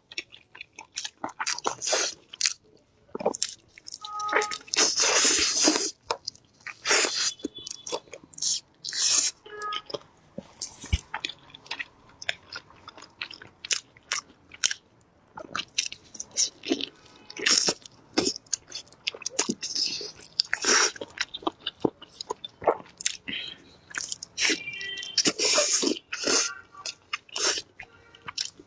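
Close-miked eating of soy-and-cola glazed chicken wings: repeated bites, chewing and lip smacks in short, irregular bursts, a few a second.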